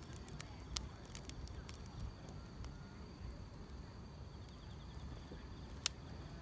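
Wood fire crackling, with scattered sharp pops (the loudest near the end) over a low rumble, and insects trilling steadily in the background.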